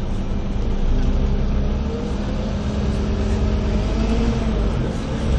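Diesel engine of a Scania CN280UA articulated city bus running under way: a steady low hum that gets louder about a second in, with a tone that rises and then falls back around four seconds in.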